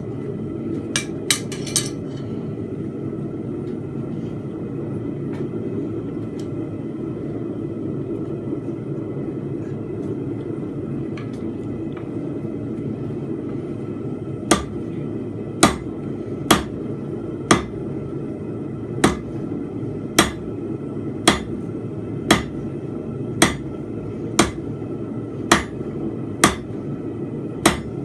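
Hand hammer striking hot steel bar on an anvil while forging a fence peg. There are a few light taps at first, then from about halfway through a steady run of ringing blows about one a second, over a continuous low roar.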